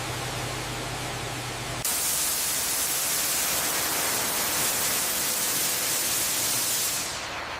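Steady hiss of noise, with a low hum under it for the first two seconds; about two seconds in the hiss becomes louder and brighter, then eases near the end.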